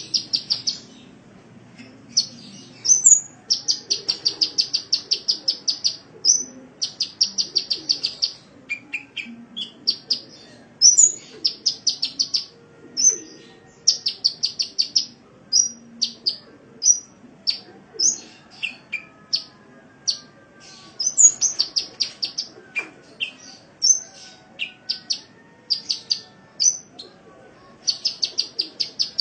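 Sunbird (the 'kolibri' of Indonesian bird-keeping) singing a high-pitched, chattering song. Fast trills of ticking notes about a second long alternate with single sharp chips and short rising whistled notes.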